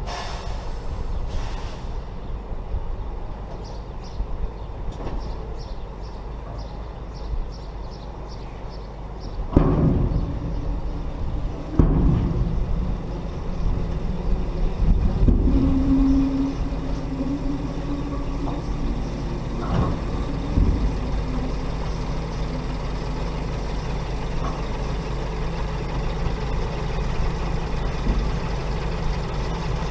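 Heavy diesel engines of a tipper truck and wheel loader running at work. For the first nine seconds a high beeping repeats about two to three times a second. Between about ten and twenty seconds in come several loud sudden surges, with a brief steady tone among them.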